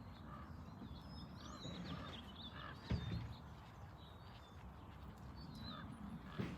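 Faint bird calls: short high chirps and repeated short calls, with one sudden dull thump about three seconds in.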